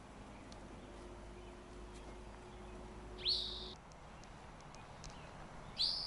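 A songbird calling twice, a few seconds apart: each call is a quick upward sweep into a short held high note.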